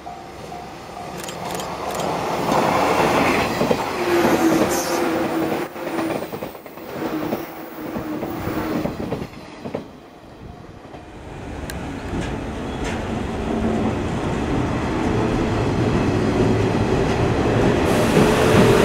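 JR 115-series electric train running past on curved track, its wheels clacking over rail joints with a steady motor hum. Then a 115-series train runs alongside a station platform, growing steadily louder, its motor tone rising near the end.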